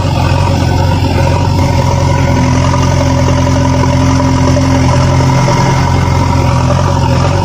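A heavy vehicle engine running steadily at idle, a low, even rumble with a few steady tones above it.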